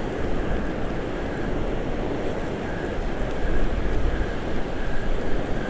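Rough surf breaking and wind buffeting the microphone: a steady rushing noise with low rumbling gusts that grow stronger in the second half.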